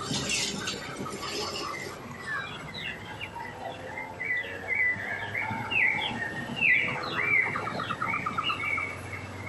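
Many small birds chirping and calling, with short rising and falling whistles and a fast trill about three-quarters of the way through. There is a brief dry rustle at the start.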